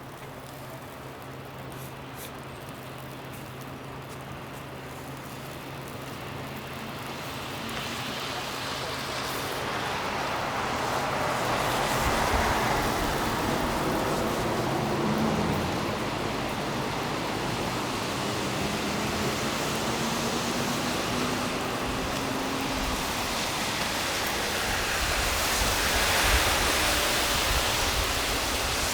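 Cars passing on a snowy street: tyre and engine noise building over the first twelve seconds and swelling again near the end, over a low steady hum.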